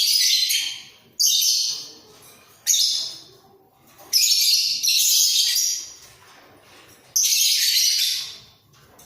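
Pair of budgerigars chattering in five loud bursts of scratchy, high-pitched warbling, each up to about two seconds long, with short pauses between.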